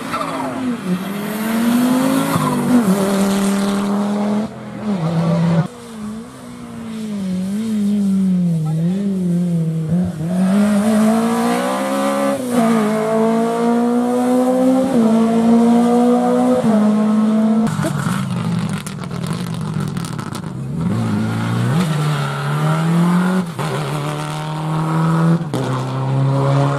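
Rally car engine under hard driving: the revs climb in repeated runs cut off by gear changes, and swing up and down through a series of corners.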